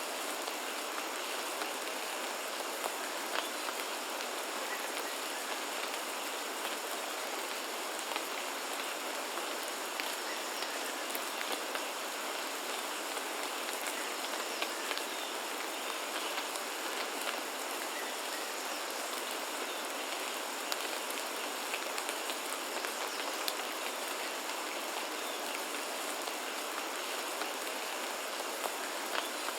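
Steady rain falling, with a constant hiss and frequent small, sharp drop ticks.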